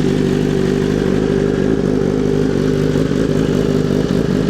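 BMW S1000RR motorcycle's inline-four engine running at a steady idle just after being started.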